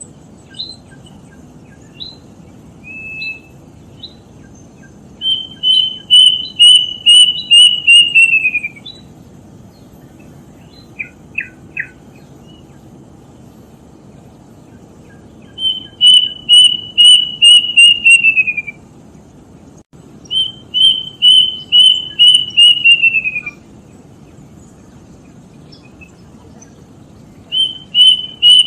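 Kedasih (plaintive cuckoo) singing. It gives four phrases of about eight evenly spaced whistled notes, each phrase sliding down in pitch over its last notes, with pauses of a few seconds between phrases. A few short chirps sound in the gaps.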